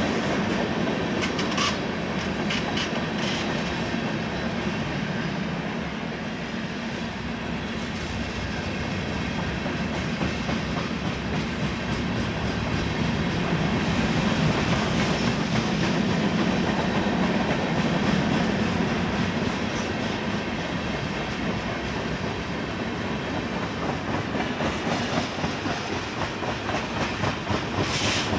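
Freight cars of a manifest train rolling past, wheels clicking rhythmically over the rail joints with a steady rumble; the clicking grows sharper near the end.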